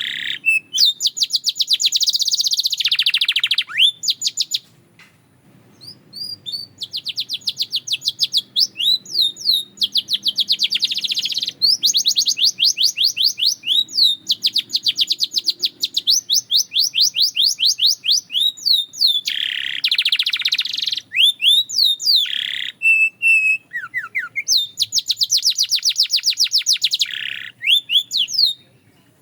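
Belgian canary singing: long trills of fast repeated notes strung into phrases, with short gliding notes between them and a brief pause about five seconds in.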